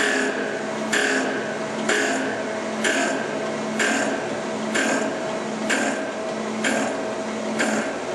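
Oliver Model 600 drill grinder running: a steady motor hum with a sharp grinding stroke about once a second, each fading quickly, as the automatic oscillating head passes the drill point across the wheel.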